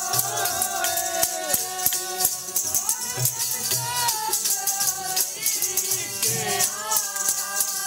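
Sikh kirtan music: a sung hymn melody over fast, continuous jingling percussion, with occasional low drum strokes.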